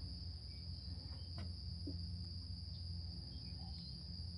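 Steady high-pitched insect chorus, unbroken throughout, over a low steady rumble, with a faint click about a second and a half in.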